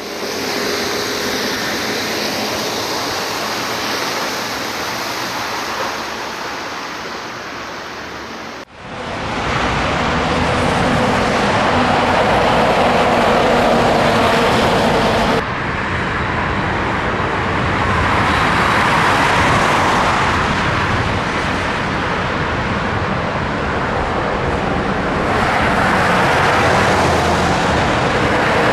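Road vehicle noise: a steady rush of tyres and wind, swelling and easing as traffic goes by. The sound changes abruptly twice, at edits.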